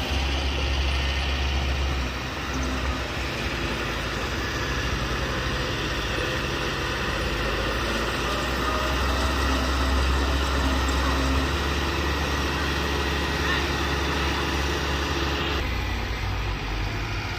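Heavy diesel earthmoving machinery running steadily with a deep engine rumble; its sound changes about three quarters of the way through.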